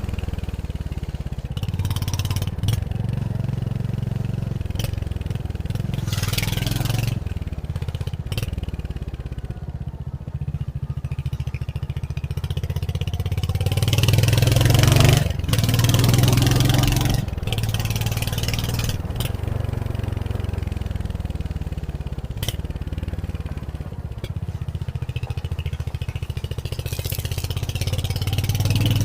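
Royal Enfield Hunter 350's single-cylinder engine running on the move. Its note swells under throttle about halfway through, then drops off suddenly as the throttle is closed or a gear is changed. Brief noisy bursts come and go throughout.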